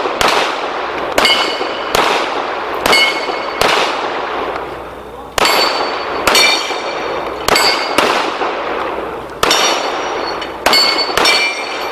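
Pistol shots fired in a string, about a dozen in rapid succession with a short pause about halfway, many followed by the ringing of steel plate targets being hit.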